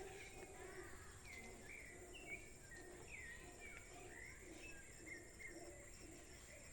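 Birds chirping faintly, a steady run of short, quick calls that mostly fall in pitch.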